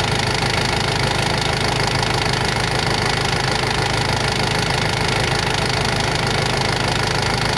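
Toyota 3Z four-cylinder petrol forklift engine running steadily at an even speed, with no change in pitch or level.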